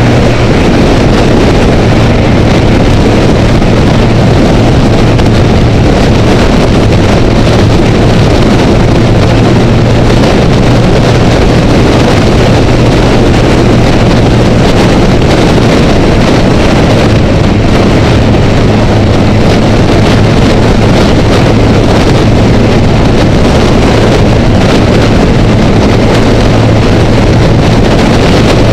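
Honda Rebel motorcycle engine holding a steady hum at freeway speed, buried under loud wind rush over the camera housing.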